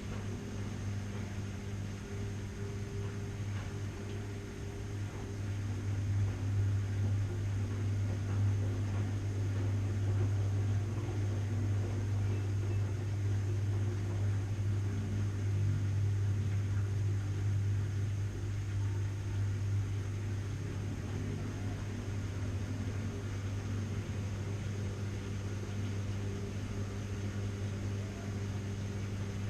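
Washing machine running with a steady low hum over a hiss. It grows louder about five seconds in and eases off a little past twenty seconds.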